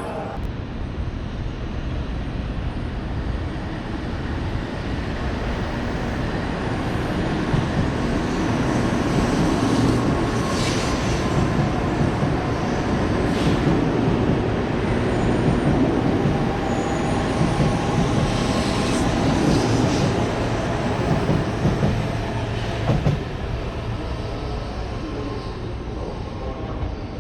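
Shinkansen train running along the station tracks: a steady rumble that builds over about ten seconds, stays loud, then slowly eases. A few brief sharp sounds cut through it.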